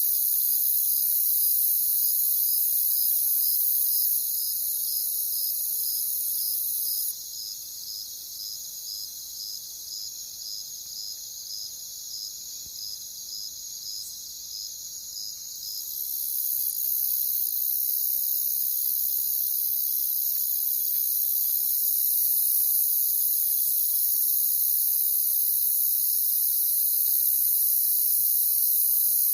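Crickets chirping in a dense, steady chorus. Over it, one cricket chirps about twice a second through the first half. The shriller top layer of the chorus drops away for several seconds in the middle, then returns.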